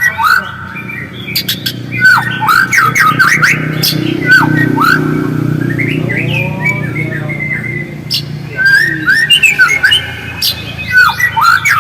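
White-rumped shama (murai batu) giving rapid chattering ngriwik calls: a stream of short, sharp whistled notes sliding up and down, mixed with clicks. A steady low hum runs underneath.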